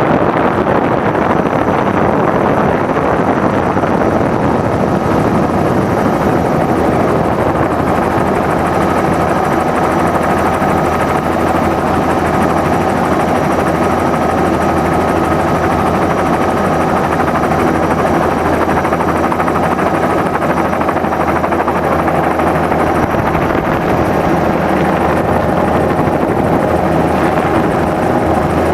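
Helicopter in flight, its rotor and engine running steadily with no change in pitch or level.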